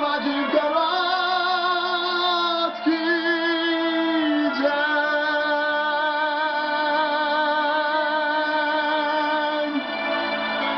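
Music: a singing voice holds long notes with a wavering vibrato over a karaoke backing track.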